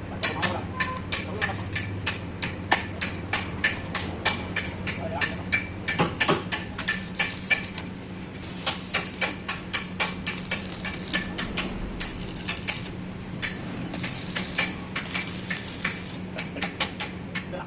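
Hammer striking steel in rapid, ringing blows, about three to four a second, with short breaks about eight and thirteen seconds in. A low steady hum runs underneath.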